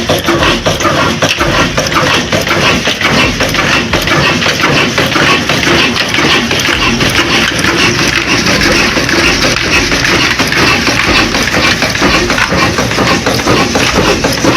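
Big old desi diesel engine running steadily, with a dense, rapid beat of firing strokes.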